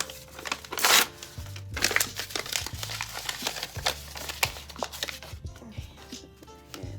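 Paper bag crinkling and crumpling as it is handled and pressed down, with a loud rip about a second in, over background music.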